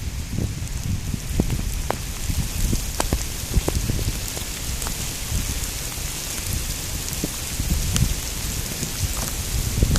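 Steady rain during a thunderstorm, a constant hiss with individual drops tapping sharply and irregularly close by, over a low rumble.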